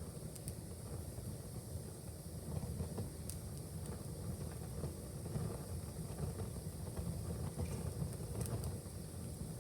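Wood fire in a fireplace crackling: a few sharp pops scattered over a steady low rumble.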